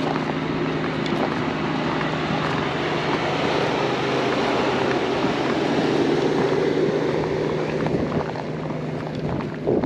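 A motor droning steadily, swelling in the middle and easing off near the end, with wind rushing on the microphone.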